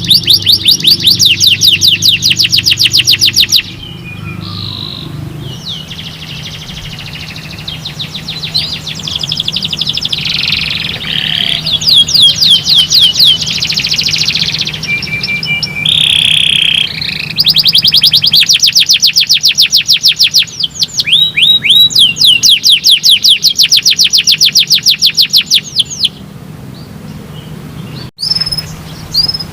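Domestic canary singing: long, rapid trills of fast-repeated high notes in several phrases, broken by short pauses, over a faint steady low hum.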